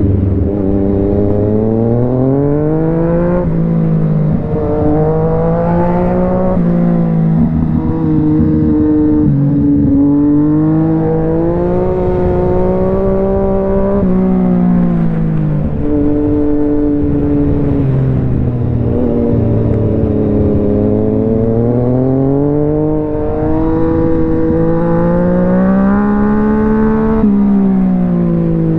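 Yamaha MT-09's three-cylinder engine under way, its revs rising and falling again and again, with sudden drops in pitch at several gear changes.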